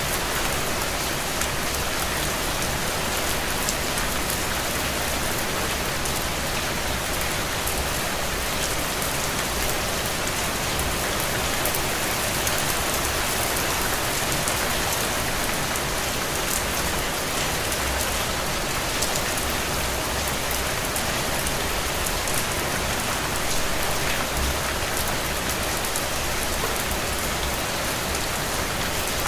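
Steady rain falling on a window: an even hiss with scattered small drop ticks, unchanging throughout.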